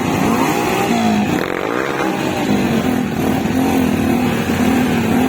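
Trail motorcycle engine running, its pitch rising and falling as the throttle is worked.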